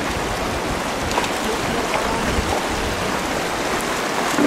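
Steady rushing of river water, with a few faint clicks over it.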